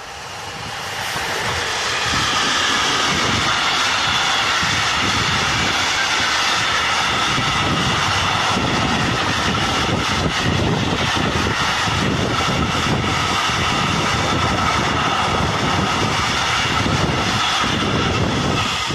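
Euro 4000 diesel locomotive running through at speed, its engine noise swelling to loud over the first two seconds. The steady rumble and clatter of a long rake of hopper wagons rolling past on the rails follows, with a steady high whine over it.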